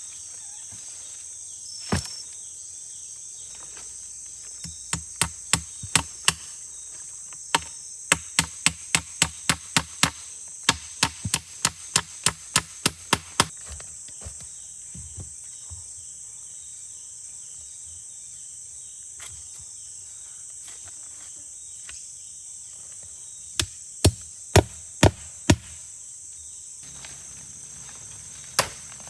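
Sharp strikes of a tool on wood, about two a second, in a long run and then a shorter one later. A steady high chorus of insects continues underneath.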